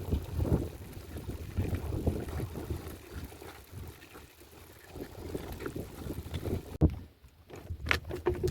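Seashore noise: wind buffeting the microphone over lapping water, in irregular gusts, with a sharp knock near the end.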